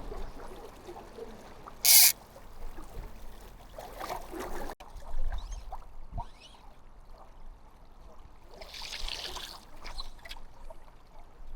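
Water running and trickling, with a brief, very loud rush of noise about two seconds in and another, shorter one around nine seconds.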